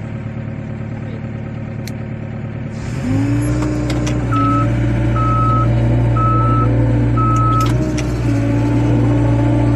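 Excavator engine running steadily, then rising in level about three seconds in, as if put under load. A travel alarm sounds four short beeps about a second apart.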